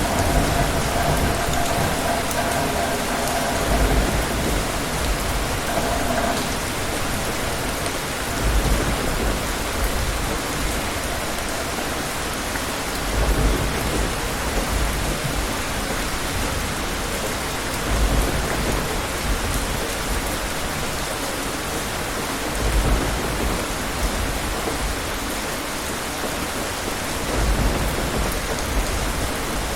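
Steady rain falling, with low rumbles of thunder coming back about every four to five seconds.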